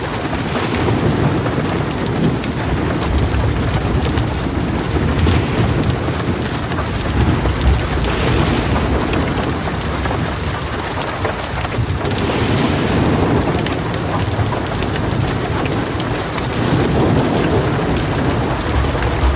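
Heavy rain falling steadily on a metal roof, with thunder rumbling low underneath, swelling and fading several times.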